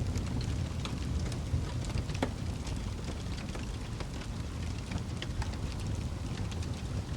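Wood fire burning in a fireplace: a steady low rumble of flames with scattered, irregular crackles and pops.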